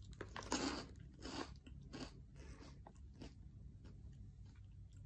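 A person biting into and chewing puffed pork rind snacks (Curators original salted pork puffs), making crisp crunches. The crunches are strongest in the first couple of seconds and grow softer as the chewing goes on.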